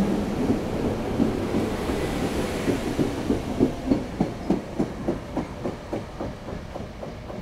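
SEPTA Silverliner IV electric multiple-unit train rolling away, its wheels clicking rhythmically over the track about three times a second. The clicks fade near the end as the train moves off.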